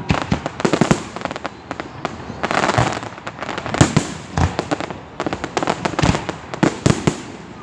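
Aerial fireworks display: many sharp shell bursts in quick succession, with stretches of dense crackling between them.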